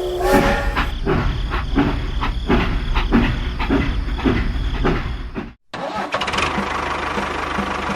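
An engine-like running sound with a regular chugging beat. It cuts off abruptly about five and a half seconds in and gives way to a steadier running sound with a faster, even tick.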